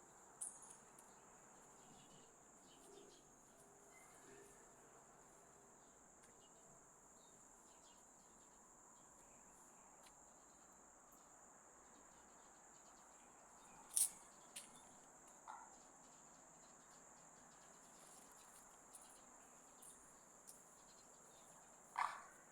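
Crickets chirring with a steady high-pitched trill. A few brief sharp sounds break in, the loudest about fourteen seconds in and another near the end.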